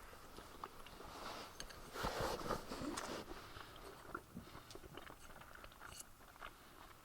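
A person chewing and biting food close to the microphone: irregular small crunches and clicks, busiest about two to three seconds in.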